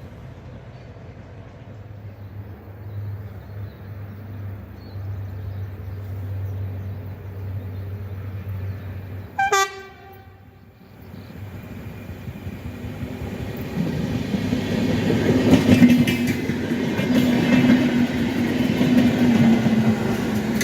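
Passenger train UTS610 sounds one short horn blast about halfway through, then comes on with a rumble of wheels on rail that grows steadily louder, with a steady motor tone over the clatter.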